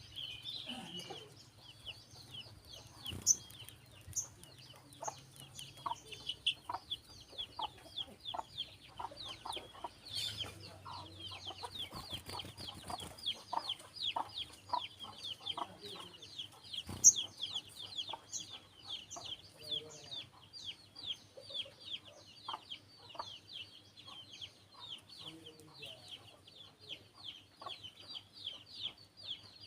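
Sunbird chirping: a rapid, steady stream of short high chips, with scattered lower clucking notes and a couple of sharp clicks, the loudest about seventeen seconds in.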